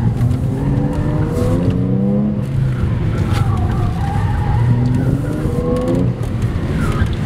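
Car engine accelerating hard twice, its pitch rising each time, with tyres squealing in between as the car is driven fast through a course.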